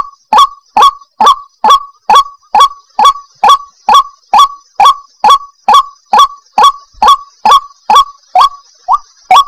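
White-breasted waterhen (ruak-ruak) calling over and over in a fast, even series, about two calls a second, each a short note that rises sharply in pitch.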